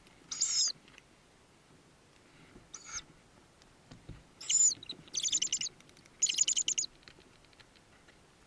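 Tawny owl nestlings calling with thin, high-pitched squeaks: a few short falling cheeps, then two quick trilled bursts of begging calls about five and six seconds in.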